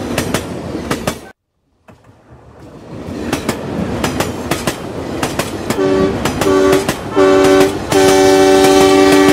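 Rattling clickety-clack of train wheels running over the rail joints. It cuts off suddenly about a second in and then builds up again. A two-note train horn gives three short toots about six seconds in, then a long blast near the end.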